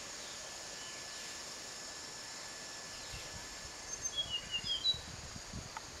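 A small bird gives a quick cluster of short, high chirps about four seconds in, over a steady high hum of insects. A few soft low bumps come with the chirps.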